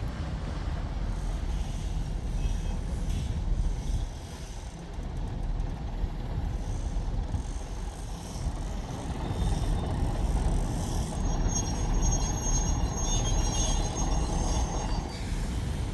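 Diesel train running with a steady low rumble. A thin, high-pitched metallic squeal comes in about two-thirds of the way through and stops shortly before the end.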